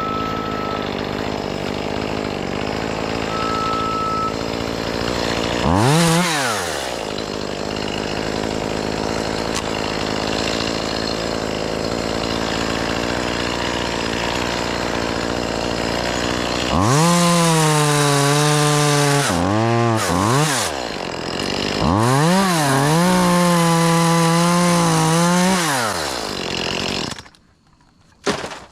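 Two-stroke chainsaw running at idle, with a quick blip of the throttle about six seconds in. Later it is held at full throttle in three long bursts, each climbing to a steady high pitch and falling back. Near the end the saw cuts off.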